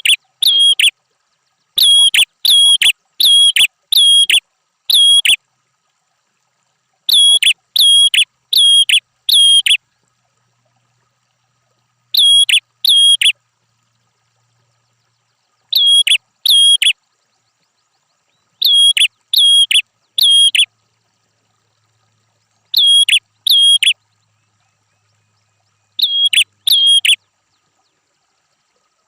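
Red-headed prenjak, a small Indonesian warbler, singing loud, sharp, high chirping notes. They come in runs of two to six at about three notes a second, with pauses of a couple of seconds between runs. The gaps between the runs are completely silent.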